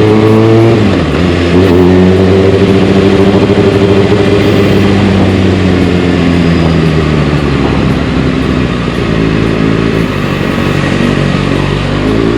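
Kawasaki Ninja ZX-6R inline-four running through a carbon-fibre Delkevic exhaust: the revs climb, drop off about a second in, then hold a slowly falling note before climbing again near the end.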